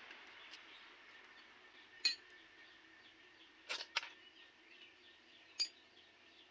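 A few light metallic clinks of tools or small engine parts being handled: one about two seconds in, a quick pair a little before four seconds, and another near the end, over a faint steady hum.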